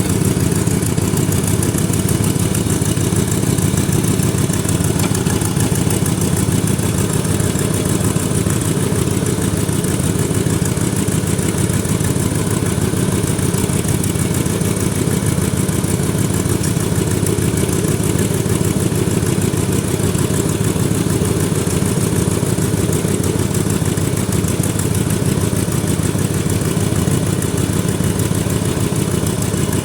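Chevrolet Vortec 8100 8.1-litre big-block V8 idling steadily. Exhaust is still leaking at the top of the manifold, where the gasket is badly mangled around broken exhaust studs.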